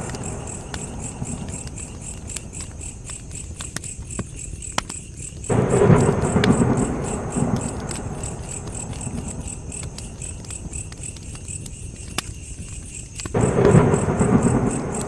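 Campfire crackling, with scattered sharp pops, over steady cricket chirping. A low rumble swells suddenly twice, about five seconds in and again near the end, and fades away each time.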